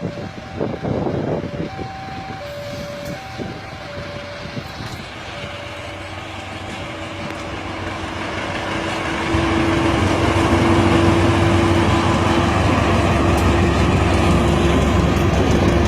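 Passenger train running on rails, with a two-tone warning signal alternating steadily over the train noise. About nine seconds in, the train noise jumps to a loud low rumble with a steady hum.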